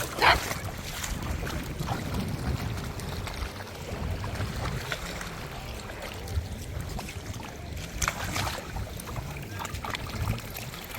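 Wind buffeting a phone microphone at the shore, with water lapping in the background. A brief high-pitched sound rises out of it just after the start, and a fainter one comes about eight seconds in.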